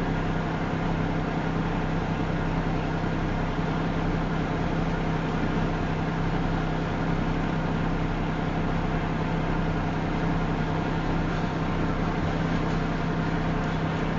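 Steady rumble of moving vehicles with a constant low hum, unchanging throughout: either the slow-rolling grain train going by or a car's cabin noise while pacing it.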